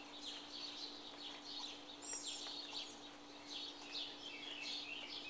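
Songbirds chirping and singing repeatedly, in short high notes that sweep downward, over a faint steady hum.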